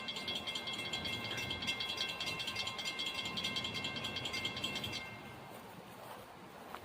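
Railroad crossing bell ringing with rapid, even strikes, then stopping abruptly about five seconds in.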